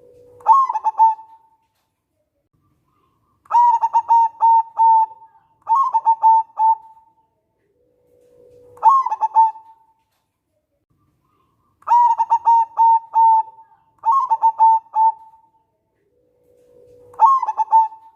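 Zebra dove (local perkutut) singing its cooing song in repeated phrases. Some phrases open with a short low note that leaps up into a quick run of coos, and others are longer strings of rapid coos. There are seven phrases in all, with short gaps between them.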